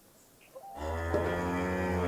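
A cow mooing: a low, drawn-out call that starts about three quarters of a second in, after a brief hush.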